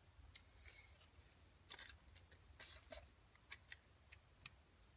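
Faint, scattered clicks and short metallic scrapes of a feeler gauge's thin steel blades being swung out and slid between a connecting rod and the crankshaft while checking rod side clearance.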